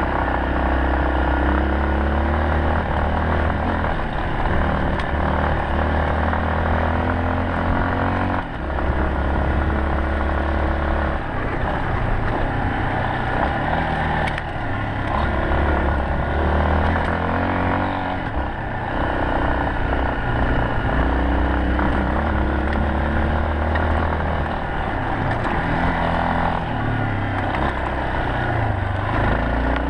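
Yamaha Serow 250's air-cooled single-cylinder four-stroke engine running under way, its revs rising and falling again and again as the rider works the throttle and gears.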